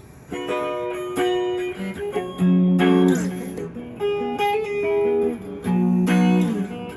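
PRS Tremonti electric guitar being played: single notes and chords that start just after the opening, with two loud, long-held low chords in the middle and near the end, and notes sliding down in pitch around the middle.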